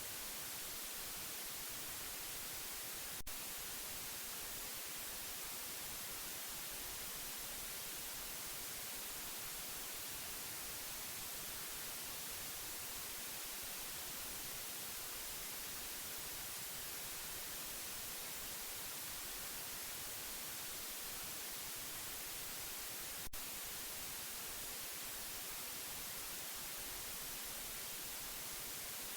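Steady white-noise hiss, even and unbroken, with a faint click about 3 seconds in and another about 23 seconds in.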